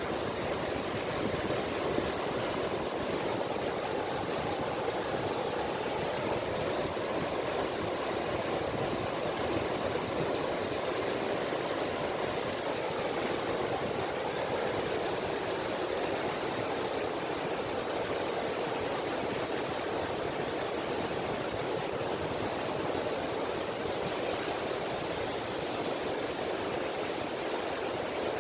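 Small, gentle sea waves lapping on a beach: a steady wash of water with no distinct breaks between swells.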